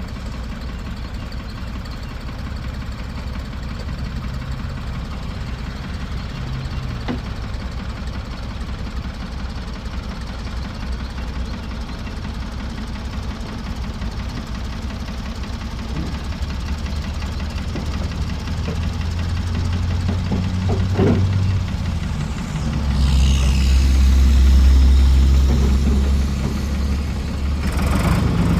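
1973 Ford 4500 industrial backhoe's diesel engine running steadily. Over the last several seconds it grows louder and deeper, and a brief falling whine comes in near the end.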